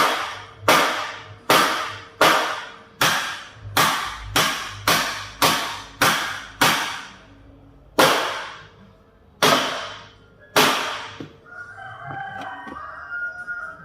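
Hammer blows on the thick steel of a Hino 500 truck's front bumper bracket, each strike ringing and dying away. About fifteen blows come, quicker in the middle, then slow and stop about eleven seconds in.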